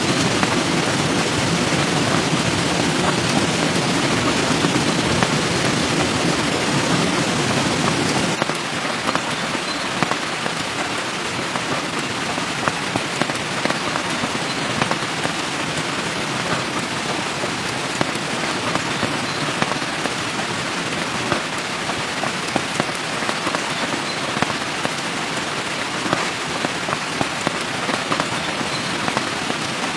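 Steady rain falling, an even hiss dotted with many small drop ticks. A deeper layer of sound under the rain stops suddenly about eight seconds in.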